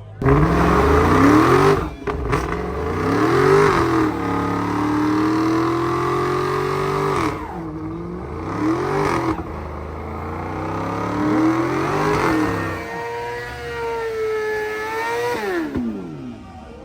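A performance car engine revving hard, its pitch climbing and then dropping sharply about five times.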